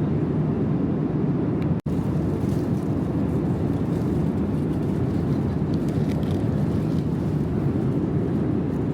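Steady low rumble of a Boeing 787-9 airliner heard from inside the passenger cabin: engine and airflow noise. The sound cuts out for an instant about two seconds in.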